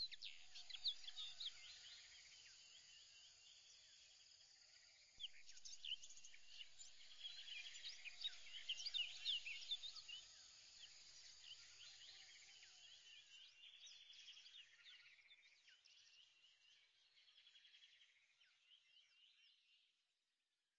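Faint birdsong: many short chirps and quick trills overlapping, which thin out and stop near the end.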